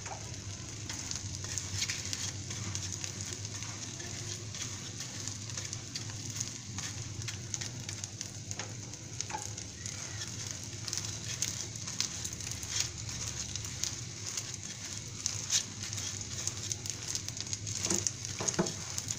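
Egg paratha frying in a little oil in a nonstick frying pan: a steady sizzle with scattered crackles.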